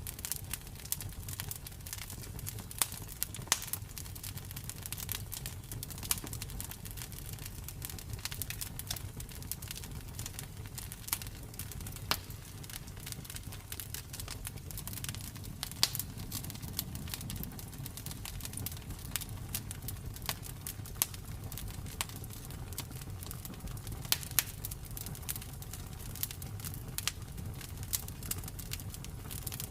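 Campfire crackling and popping: irregular sharp snaps of burning wood, a few of them much louder, over a low steady rumble.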